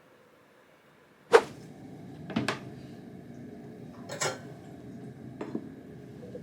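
A sharp knock about a second in, the loudest sound, followed by three or four softer knocks and clunks, like objects being handled or a cupboard being closed.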